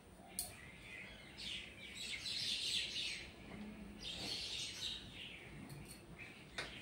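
Small birds chirping in quick twittering bursts, densest about one and a half to three seconds in and again around four to five seconds. A sharp click comes about half a second in.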